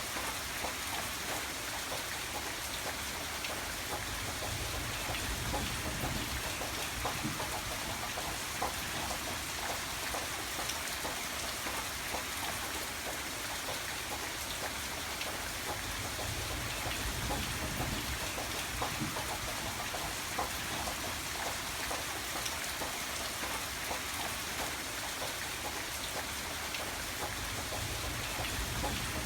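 Steady rain falling on a surface, with many small drop ticks over an even hiss and a low rumble that swells and eases now and then.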